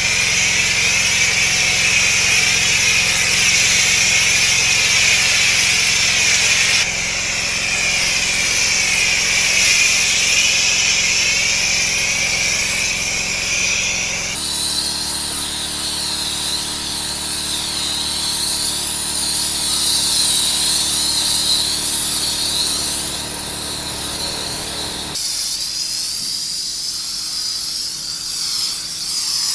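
Pressure washer jet spraying onto patio paving: a steady, loud hiss of high-pressure water over a low, even hum from the machine. The sound changes abruptly three times as the cleaning shots cut from one to the next.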